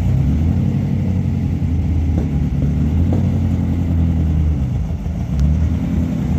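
Old Ford GT's engine running with a steady low rumble, its exhaust giving a few light pops.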